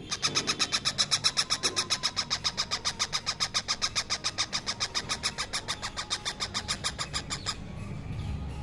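Baby parrot begging for food: a fast, even run of short high-pitched calls, about seven a second, that stops abruptly about seven and a half seconds in.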